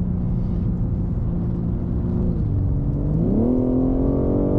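Car engine running steadily, its note dipping slightly then climbing about three seconds in as the car accelerates, then holding at the higher pitch.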